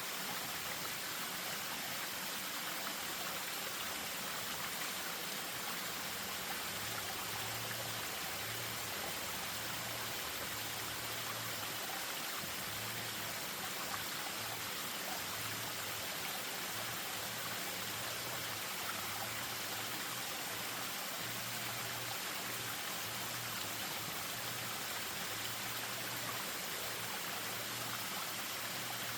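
Spring-fed stream running over a small waterfall: a steady, even rush of falling water. A faint low hum comes and goes underneath from several seconds in.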